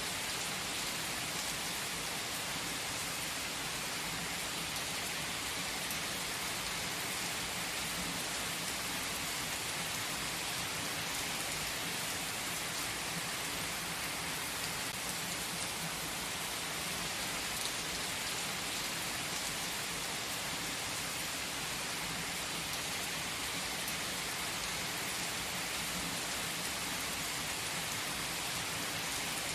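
Steady rain falling, an even hiss with no change in loudness and no distinct thunder.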